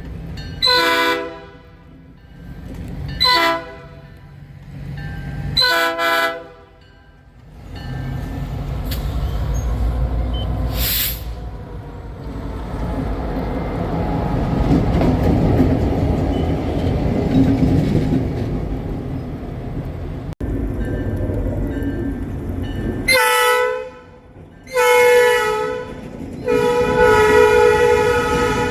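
A train horn sounds three blasts, then the steady rumble of a moving train, then three more blasts near the end, the last one held longest.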